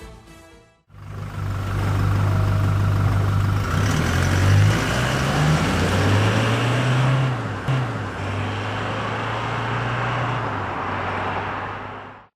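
Toyota Hilux GUN125's 2.4-litre four-cylinder turbo-diesel exhaust idling steadily, blipped up twice in the middle and dropping back to idle each time, then fading out near the end.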